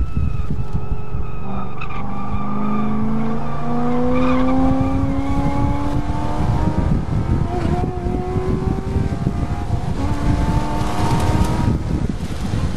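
2010 Corvette Grand Sport's 6.2-litre LS3 V8, on headers and a cat-less X-pipe exhaust, pulling at full throttle, heard from inside the cabin: the pitch climbs steadily, drops at an upshift about seven and a half seconds in, climbs again, then falls away near the end as the throttle comes off. Low road and wind rumble run underneath.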